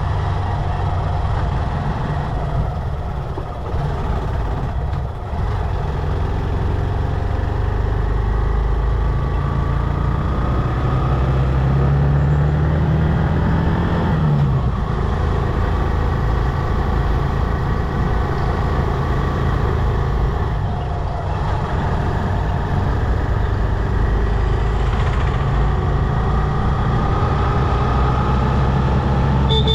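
Motorcycle engine running under way, with road and wind noise. Its note climbs for a few seconds from about ten seconds in, then drops suddenly near the middle.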